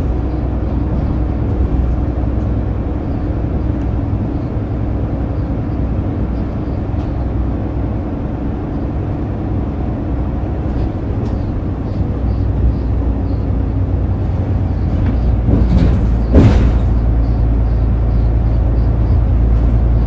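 Steady engine rumble and road noise heard inside a moving diesel route bus, with a short loud hiss of air about 16 seconds in.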